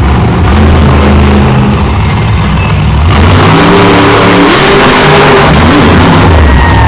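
Monster truck's supercharged V8 revving hard and loud, its pitch climbing and dropping as the throttle is worked, growing fuller about halfway through.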